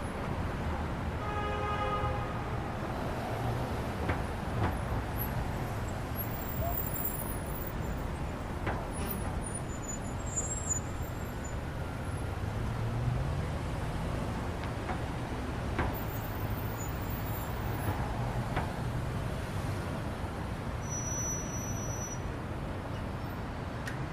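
Steady low rumble of road traffic and vehicle engines, with a few sharp knocks scattered through it.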